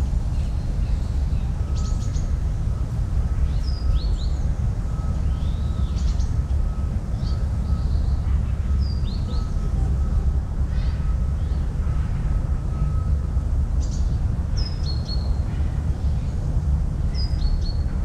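Small birds chirping, short sharp sweeping calls every second or two, over a steady low outdoor rumble.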